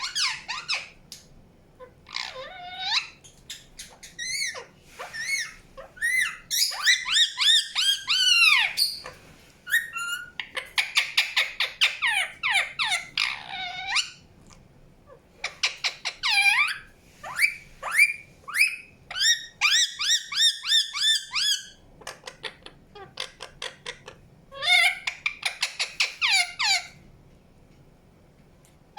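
Indian ringneck parakeet chirping and chattering in rapid runs of short, shrill calls, with pauses of a second or two between the runs.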